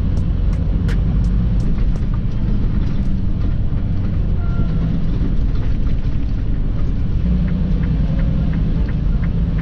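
Semi-truck's diesel engine running with a steady low rumble, heard from inside the cab. A light, quick ticking, about three ticks a second, is heard early on and again near the end.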